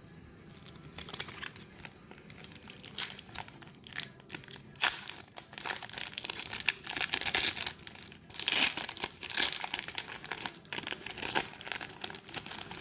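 Pokémon trading-card booster-pack wrappers being crinkled and torn open by hand: a dense run of irregular crackles that starts about a second in and stops just before the end.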